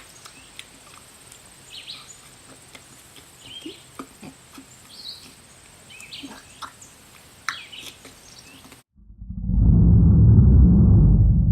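Birds chirping over a steady high insect whine, until about nine seconds in, when it cuts off abruptly into a very loud, muffled, distorted low blast.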